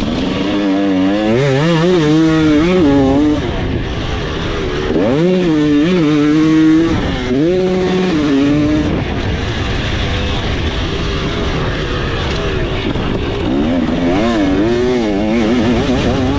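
KTM 300SX single-cylinder two-stroke dirt bike engine revving hard under riding, its pitch climbing and dropping in repeated surges as the throttle is opened and shut, with steadier stretches in between.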